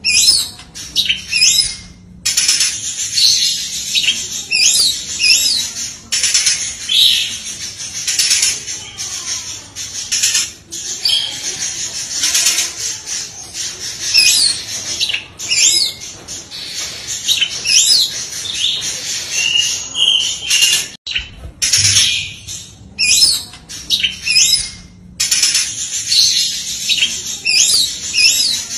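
Oriental magpie-robin (kacer) singing a continuous run of rapid, varied whistles and chattering phrases packed with mimicked calls. The sequence briefly cuts out about two-thirds of the way in and starts over, as in a looped training recording.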